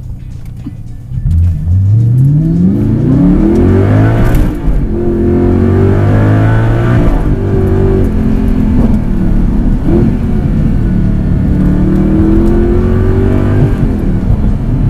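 First-generation Audi R8's mid-mounted engine accelerating hard through the gears: the revs climb, drop sharply at each upshift of its single-clutch automated gearbox, then climb again, several times in a row.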